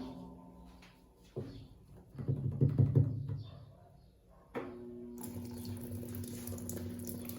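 Consul CWC08 washing machine at work: a few low knocks and sloshes in the first half. About four and a half seconds in, a steady hum starts with water running over it, typical of the machine taking in water.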